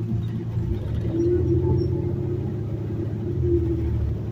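City transit bus running: a steady low rumble with a constant drone over it that swells slightly a couple of times.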